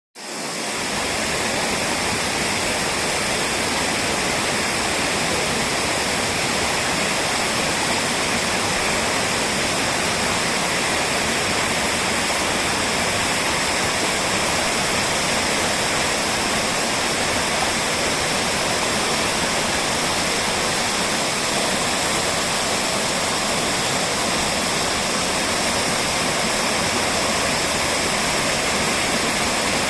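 Mototaki Fukuryusui, a waterfall of spring water emerging from the ground and pouring down a rock face: a steady rushing of falling water that fades in at the start.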